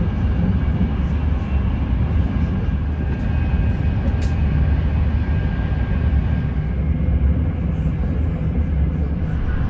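Steady low rumble of an ETR 500 high-speed train running, heard from inside a passenger coach, with faint light ticks on top.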